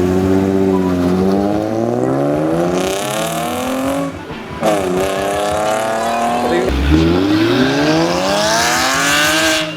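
Porsche 997 Carrera 4S flat-six with a full IPE Innotech exhaust accelerating hard through the gears: the engine note climbs three times, with two short breaks at the gear changes, and lifts off near the end.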